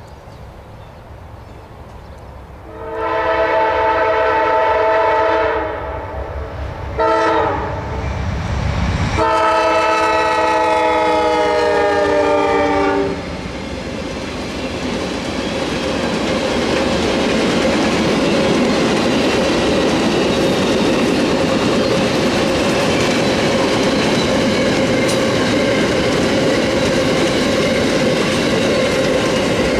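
Amtrak passenger train led by a P42DC diesel locomotive sounding its horn in three blasts, long, short and long, the last dropping slightly in pitch as the locomotive passes, with diesel rumble between the blasts. After that comes steady wheel-on-rail rolling noise as a long string of passenger cars goes by.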